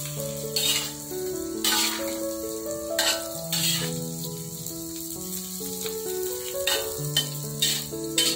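Tofu and tempeh cubes sizzling as they fry in oil in a steel wok. A metal spatula scrapes and knocks against the wok several times as the pieces are turned. Background music plays underneath.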